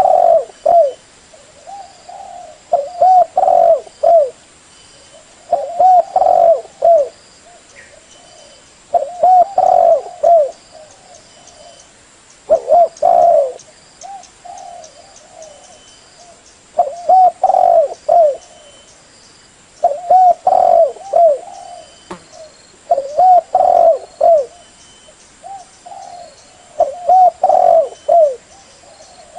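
Spotted dove cooing, a decoy bird's call used to lure wild doves. It repeats short multi-note coo phrases about every three seconds.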